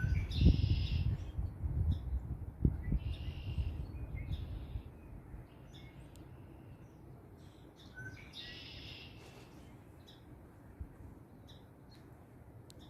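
Birds calling: three longer harsh calls about four seconds apart, with short chirps between. Wind rumbles on the microphone at first and dies down about five seconds in.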